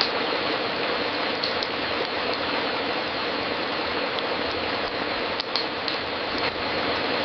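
Wood fire crackling in a fireplace: a steady hiss with scattered sharp pops, a small cluster of them about five and a half seconds in.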